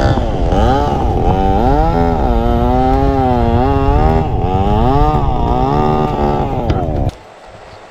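Motorcycle engine under load, its pitch rising and falling as the rider works the throttle. It stops abruptly near the end, leaving a much quieter hiss.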